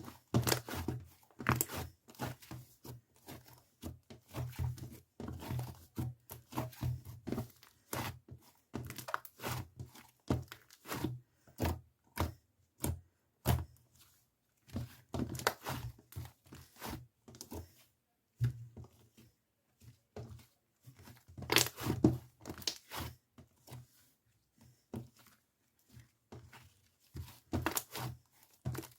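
Irregular taps and knocks, some with a dull thud, mixed with crinkling and tearing sounds, close to the microphone.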